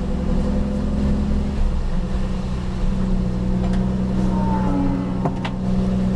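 Porsche 911 GT race car's flat-six engine running at a steady pitch, heard from inside the cabin, with a couple of sharp clicks a little past five seconds in.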